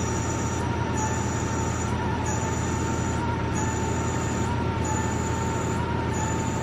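Haas desktop lathe cutting under program, with a steady hum and a steady whine from the spindle. A higher whine switches on and off about every 1.3 s as the tool feeds in short chip-breaking steps.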